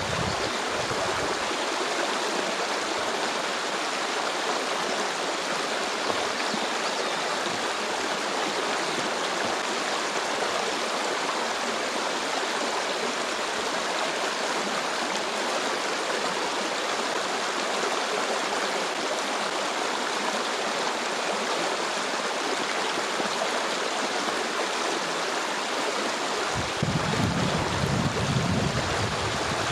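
A stream of flowing water rushing steadily over rocks. Near the end, gusts of wind rumble on the microphone.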